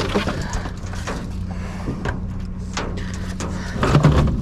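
Scattered clicks and knocks of hard cases and scrap being handled, over a steady low hum, with a louder cluster of knocks near the end.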